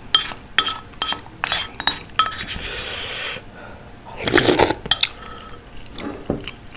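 Eating utensils clinking against dishes again and again during a meal, with a short noisy scrape or slurp near the middle and a louder, fuller eating sound about four and a half seconds in.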